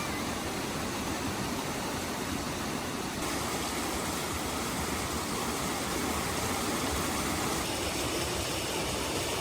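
Steady rush of heavy rain, an even wash of noise that grows a little louder about three seconds in.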